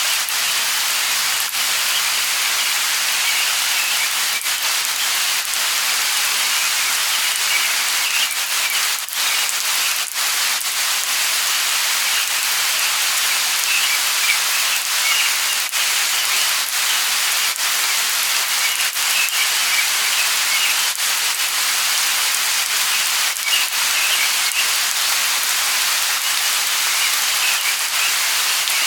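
Light rain falling steadily: an even hiss with scattered drip clicks, and faint bird chirps coming through now and then.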